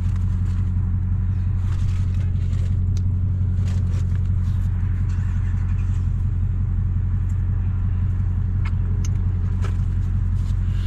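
Dodge Hellcat's supercharged 6.2-litre Hemi V8 idling with a steady, deep drone, with a few faint ticks over it.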